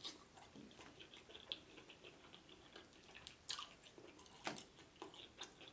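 Faint chewing of fried chicken: soft, wet mouth clicks scattered throughout, with a few sharper clicks.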